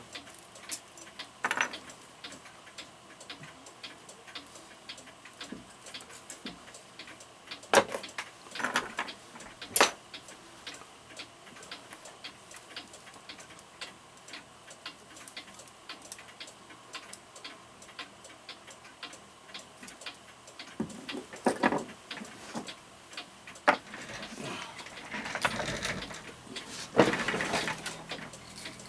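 Mechanical mantel clock movement ticking steadily, with occasional knocks and clatter of parts or tools being handled, the busiest stretch near the end.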